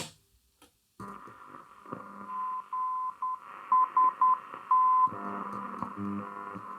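Grundig Satellit 2100 shortwave receiver: a sharp click, a moment of silence, then band hiss with a single steady tone keyed on and off in short and long beeps like Morse code. After about five seconds the beeps give way to lower tones that change pitch in steps.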